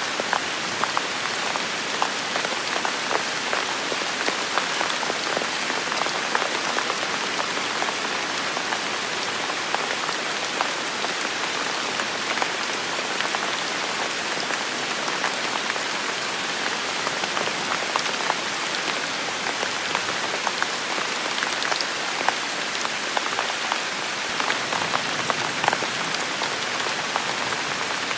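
Steady heavy rain falling, a continuous hiss with many sharp individual drops pattering close by.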